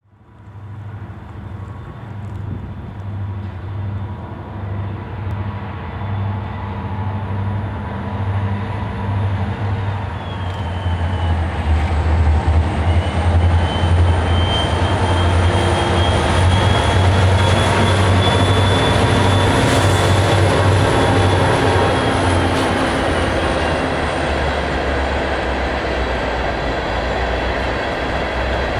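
Diesel freight locomotive drawing near and passing, its engine rumbling with a high whine. The sound grows louder over the first dozen seconds, and the whine rises, then falls again near the end.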